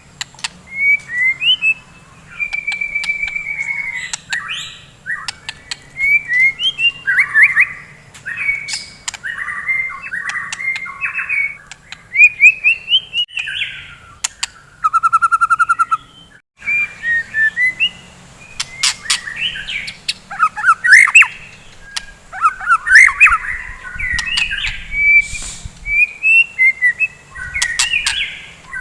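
White-rumped shama singing a loud, varied song of whistled phrases, chirps and sharp clicks, with a fast rattling trill about halfway through.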